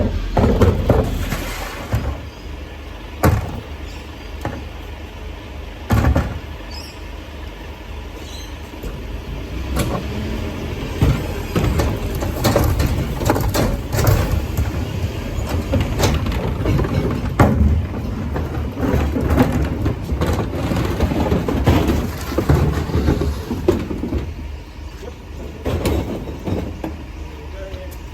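Garbage truck engine running with a steady low rumble, broken by a series of sharp bangs and clunks.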